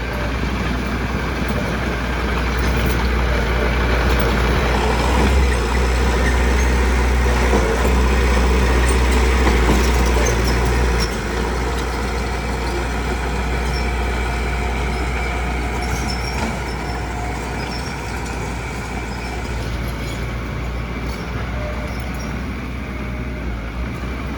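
Diesel engine of heavy construction machinery running under load with a deep steady drone. It grows louder a few seconds in and eases back about halfway through.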